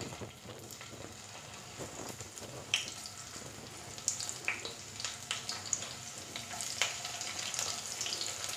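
Hot mustard oil in a kadhai sizzling and crackling as pieces of stuffed okra are laid into it one by one. The sizzle grows denser and louder toward the end as more pieces go in.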